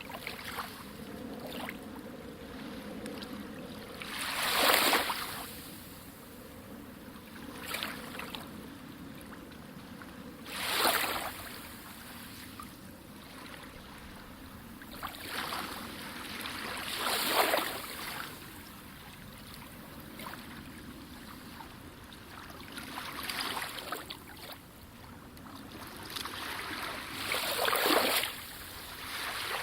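Sea waves washing in, with a louder splashing surge about every six seconds over a steady wash of water.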